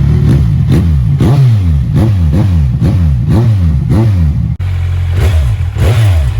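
2018 Kawasaki Z1000's inline-four engine running with its mufflers removed, blipped on the throttle about twice a second, each rev rising sharply and falling back. Near two-thirds of the way through it settles to idle for a moment, then the blips resume.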